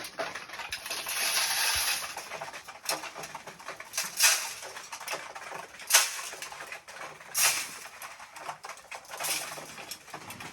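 Pigeons scuffling and rustling in their enclosure: a longer rustle in the first couple of seconds, then short scrabbling bursts about every one to two seconds.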